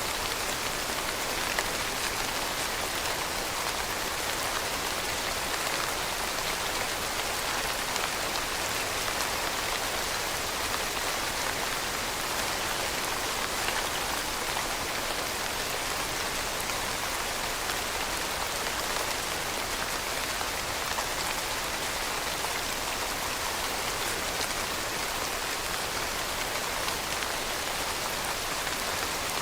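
Steady rainfall, many drops pattering on a surface with faint scattered ticks of single drops, even and unbroken.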